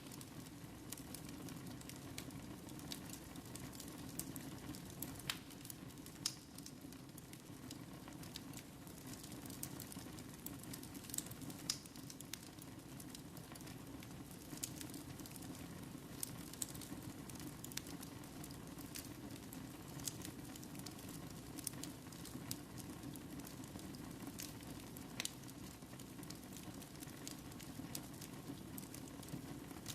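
Wood fire burning in a fireplace: a steady low hiss with frequent sharp crackles and pops at irregular intervals.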